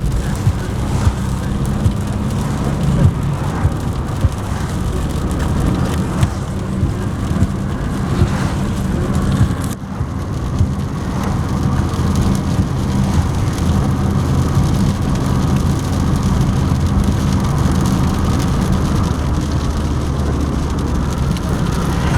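Honda Jazz heard from inside the cabin while driving in rain: a steady low engine and road hum with rain hissing on the car and scattered light taps. The sound dips briefly about halfway through.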